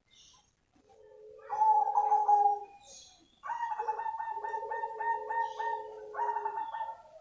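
Zebra dove of the black cemani strain (perkutut cemani) cooing. A drawn-out coo comes about a second in and is the loudest part. From about three and a half seconds a longer phrase follows, made of quick rhythmic coo notes that run until near the end.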